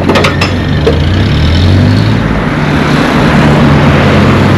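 Motor vehicle engine running close by, its low hum rising slightly about a second in and then holding steady over road noise, with a few sharp clicks at the start.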